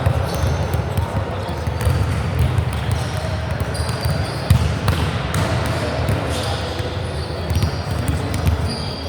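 Volleyball game in a gym: steady crowd and player chatter with short sneaker squeaks on the court, and a sharp ball strike about four and a half seconds in.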